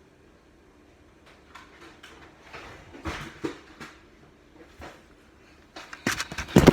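Kitchen handling sounds: scattered light knocks and rustles, then a burst of loud clattering about six seconds in.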